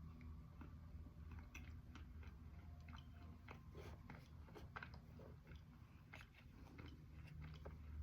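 Close-up chewing of clay slates, softened after a short soak: a quick, irregular run of small crunches, thickest around the middle, over a steady low hum.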